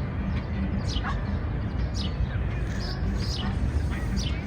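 Small birds calling in a city park: short, quickly falling chirps repeating about every half second, over a steady low background rumble.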